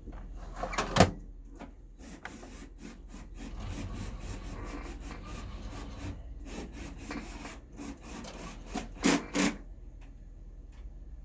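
Technics SL-MC4 CD changer mechanism at work: a sharp click about a second in, then irregular clicking and rubbing, and two loud knocks near the end, over a steady low hum.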